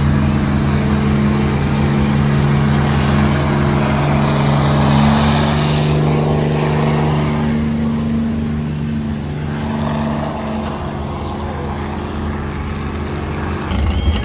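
Engine of a pulling truck or tractor running at a steady speed; its drone fades over the middle stretch, and a louder low engine sound comes in near the end.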